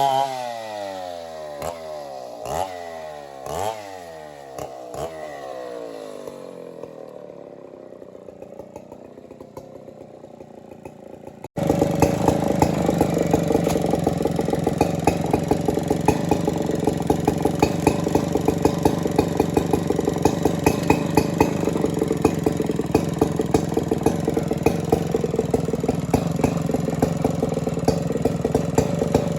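Two-stroke chainsaw engine coming off a cut, its pitch falling as it winds down, with a few sharp clicks in the first few seconds. Then, after an abrupt cut, a small engine idles steadily with a rapid ticking beat.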